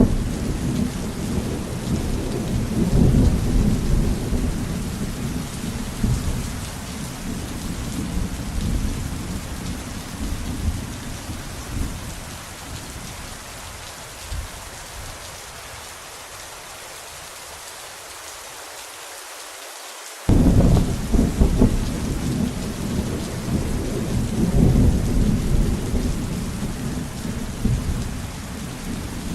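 Thunderstorm: steady heavy rain with long rolling rumbles of thunder. About two-thirds of the way through the thunder dies away, leaving only the rain. The thunder then returns suddenly, with the rain louder again.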